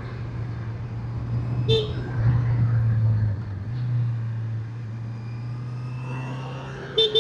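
Motorcycle engine running steadily while riding, with two short horn toots, one about two seconds in and one near the end.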